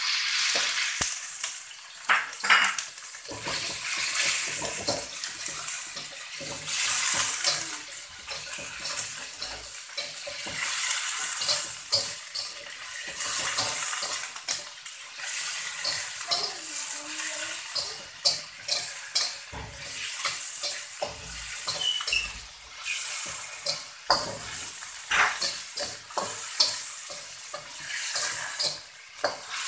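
Meat sizzling in hot oil in a steel wok, with a slotted metal spatula scraping and clinking against the wok as the meat is stirred and turned.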